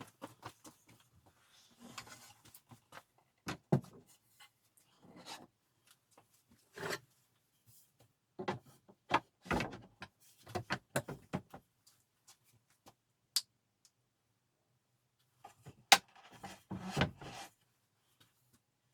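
Wooden furniture being handled in a workshop: scattered light knocks, clicks and short rubs of wood, in small clusters with quiet gaps between, the sharpest clicks about two thirds of the way through.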